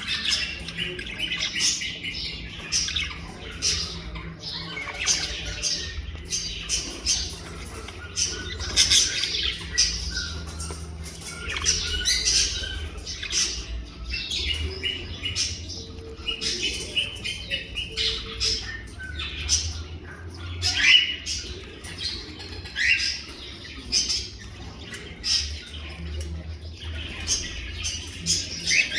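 A group of pet birds calling constantly, short chirps and harsh squawks overlapping one after another, over a low steady hum.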